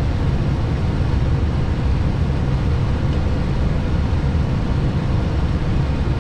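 Steady, even rush of airflow and engine drone inside an Airbus A320 cockpit on short final approach, heaviest in the low end. The aircraft is just below decision minimums, in the last seconds before the radio-altimeter height callouts.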